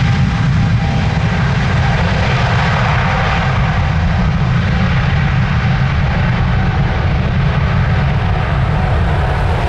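Boeing 777-300ER's twin GE90-115B turbofans running at takeoff thrust: a loud, steady, deep jet noise with faint steady whining tones above it.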